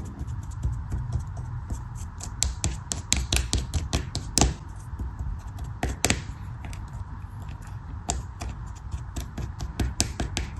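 A knife cutting crunchily through a soft block close to the microphone: a quick run of crisp clicks and cracks, several a second, over a low rumble.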